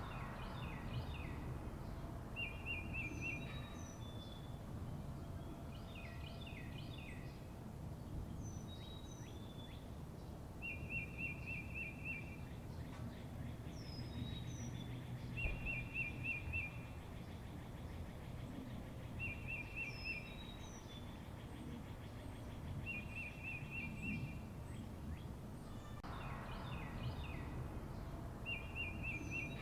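Songbirds singing: a short rapid trill repeats about every four seconds, with thin high chirps between, over a steady low outdoor background noise.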